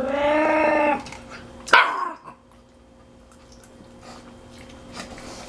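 Resource-guarding puppy making a drawn-out pitched vocal sound that ends about a second in, followed by a single sharp bark that drops in pitch. Afterwards only a faint steady hum remains.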